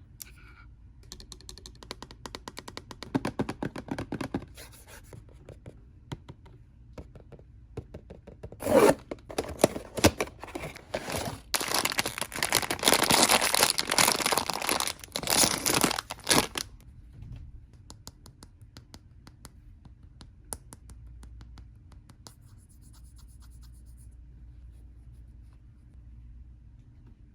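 Blind-box packaging being torn open and crinkled by hand. Scattered light taps and rustles come first, then a long stretch of tearing and crinkling in the middle, loudest for a few seconds. After that only a few faint clicks remain.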